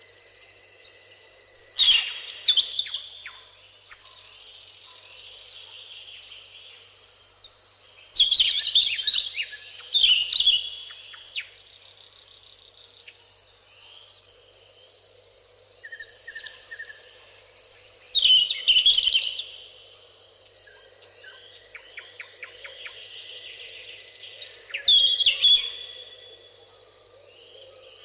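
Songbirds singing in bursts of rapid chirping song, loudest about two seconds in, again at about eight to ten seconds, near nineteen and near twenty-five seconds. Short buzzing trills from insects sound between the bursts, over a faint steady background.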